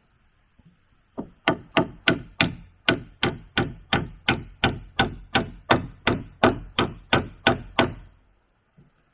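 A fast, steady run of blows on wood, about four a second, with one short break near the start.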